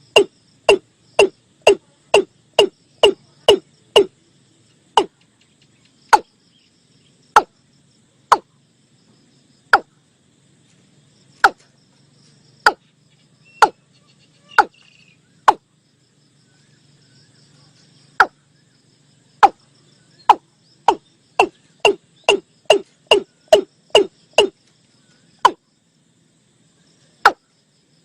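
Watercock calling: a long series of short, hollow, deep notes, sometimes in quick runs of about two to three a second and sometimes spaced about a second apart. It is a recording of the call as played to lure watercocks. A faint high insect hiss runs underneath.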